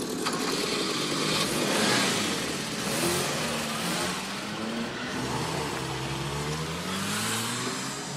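A motor vehicle's engine revving and driving, its pitch rising and falling several times, loudest about two seconds in.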